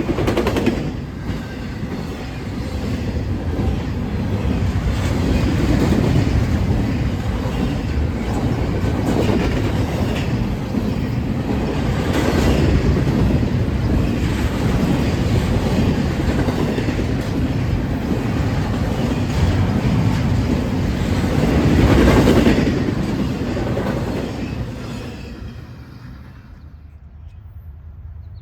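A train rolling past, its cars rumbling and clattering over the track with repeated clacks, the sound dying away over the last few seconds.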